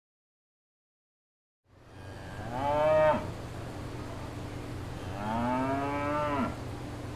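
A cow mooing twice, two drawn-out moos that rise and then fall in pitch, the second a little longer, over a steady background hiss and hum that fades in after a moment of silence.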